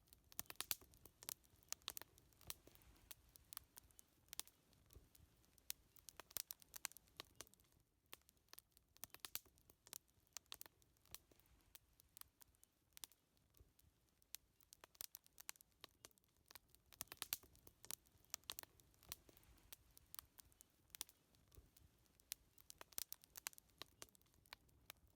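Wood fire crackling: frequent, irregular sharp pops and snaps over a faint low hiss.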